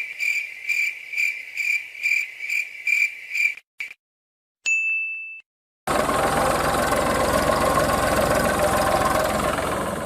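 A fast, even series of high beeps, about two and a half a second, stops suddenly. A single short beep follows. Then a small motor runs steadily and fades out near the end.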